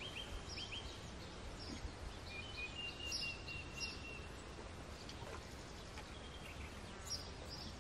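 Outdoor ambience of small birds chirping. There are scattered short high chirps and one thin, high trill a couple of seconds in, over a steady low rumble.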